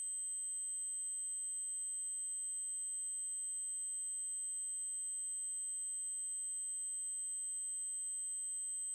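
Synthesized 8192 Hz triangle-wave tone: one steady, unbroken high-pitched tone.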